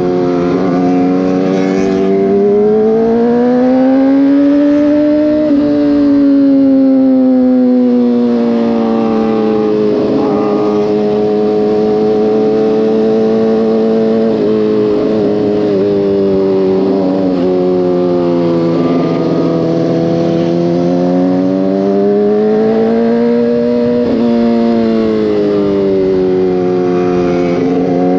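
Motorcycle engine running on the road, its pitch climbing and falling slowly as the throttle opens and closes, with a few sudden drops in pitch.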